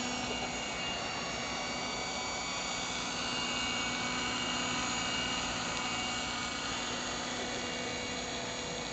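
Electric Compass Atom 500 RC helicopter in flight: steady rotor noise with a high motor and gear whine, growing slightly louder in the middle.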